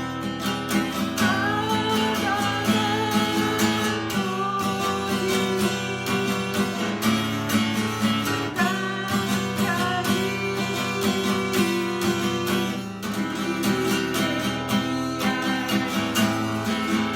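Acoustic guitar strummed in a 3/4 waltz rhythm (bass stroke, then down-up, down-up), moving through simple open chords, with a voice singing the melody along with it.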